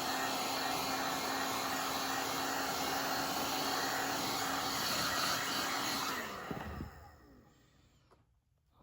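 Electric hot-air blower running steadily, heating freshly applied foam to speed it up. About six seconds in it is switched off, and its motor hum falls in pitch as it spins down.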